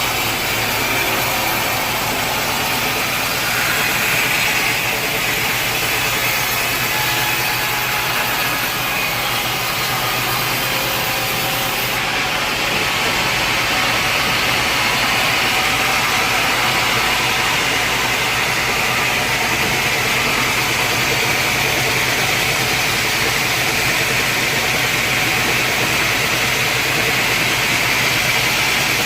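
Sawmill machinery running steadily: a continuous mechanical hum under a loud hiss, which changes abruptly about twelve seconds in.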